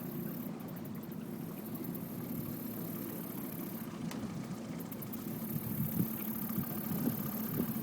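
Boat motor running steadily, with a couple of light knocks near the end.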